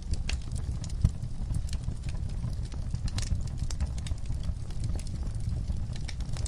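Wood fire crackling in a fireplace: frequent small pops and snaps over a low, steady rumble of the flames, with one sharper pop about a second in.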